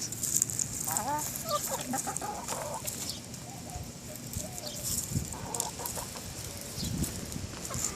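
Chickens clucking softly while feeding, a few short calls in the first three seconds and more around the middle, over light rapid clicking.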